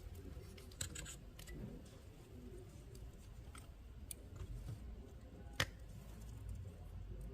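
Scattered small clicks and light taps of hands handling small parts and tools, over a steady low rumble; one sharper click a little past halfway.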